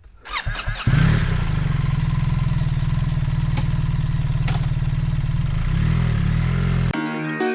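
BMW R1300GS's boxer-twin engine cranked on the electric starter and catching about a second in, then idling steadily. The sound cuts off abruptly near the end.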